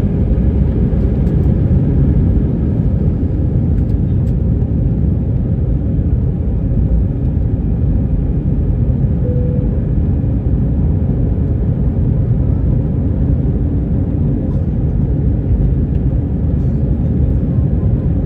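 Steady cabin noise inside an Airbus A320: an even, loud low rumble of the engines and the air around the fuselage, with a faint steady hum above it.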